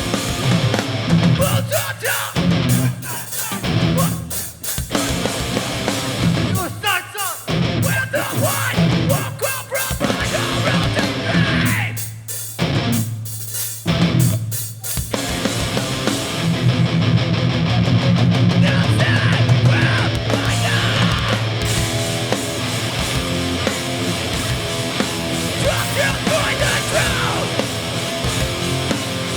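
Hardcore punk band playing live, with distorted electric guitars, bass and drums. For about the first half it hits in short stop-start blasts with brief gaps between them, then settles into continuous full-band playing.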